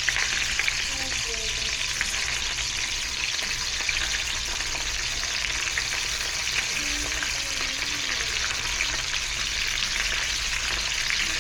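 Meat stir-frying in a pan: a steady sizzle with small crackles throughout.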